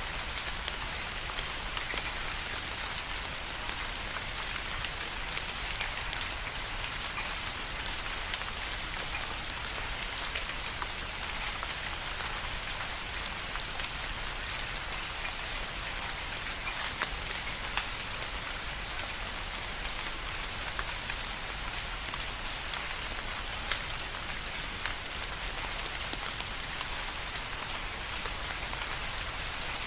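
Steady rain falling, a continuous hiss with many sharp individual drops ticking on a hard surface.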